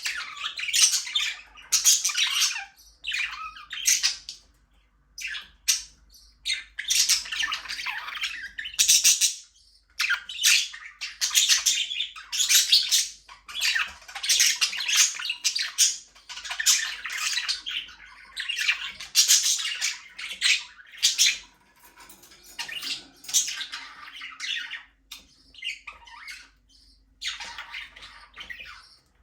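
Several budgerigars chattering, with rapid harsh squawks and chirps coming in bursts of a second or two, with short pauses between.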